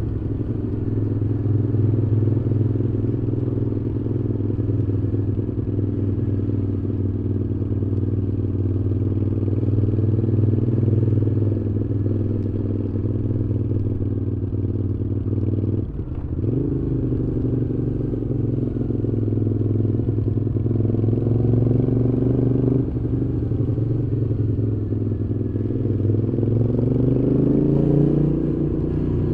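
Moto Guzzi V7's air-cooled transverse V-twin running through Mistral aftermarket mufflers under way. The engine note drops off briefly about halfway through, then the revs climb again, and they rise once more near the end.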